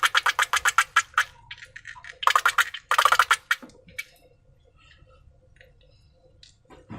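Slime being squished by hand, a fast run of sticky clicking pops about seven a second that stops about a second in. Two more short bursts of the same come a little later, then only faint crackles and a soft thud near the end.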